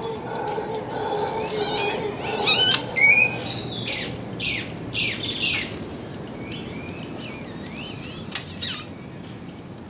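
Birds calling: a quick run of chirps, the loudest squawk about three seconds in, then several falling calls that thin out toward the end.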